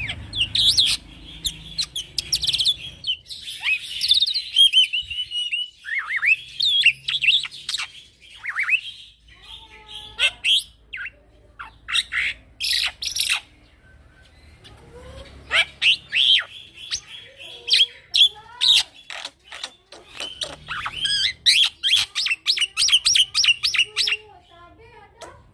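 A young male black-winged myna (jalak putih) singing a long, varied song of sharp chirps, whistled slides and rapid clicky rattles, with a couple of short pauses.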